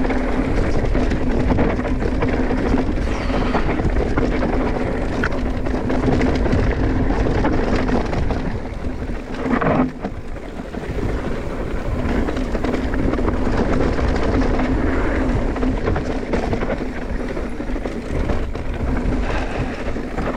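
Mountain bike descending a rough, rocky trail at speed: tyres rumbling over rock and dirt, with the bike rattling. There is a sharp knock about ten seconds in, followed by a brief drop in level.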